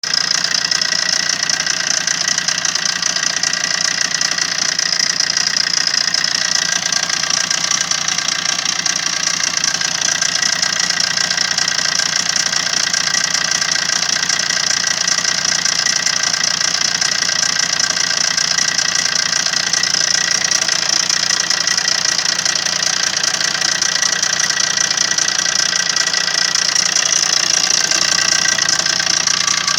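Opel Combo 1.3 CDTI diesel engine idling steadily, with a rapid knock from the second camshaft near the left injector, which the owner takes to be the hydraulic lifters.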